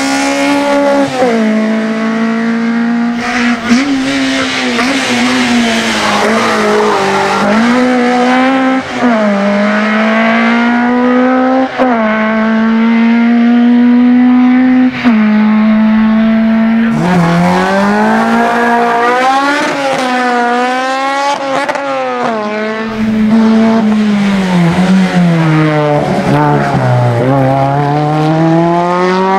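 Racing touring car's engine at high revs: the pitch holds high, dips and climbs again and again, and in the second half it sweeps up repeatedly and drops sharply as it changes gear.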